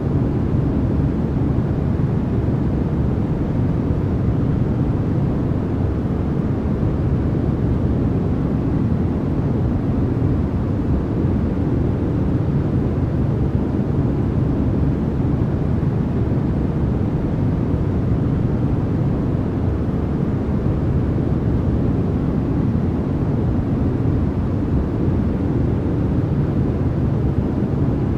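Steady generated white noise for sleep, an even, unchanging hiss weighted toward the deep end.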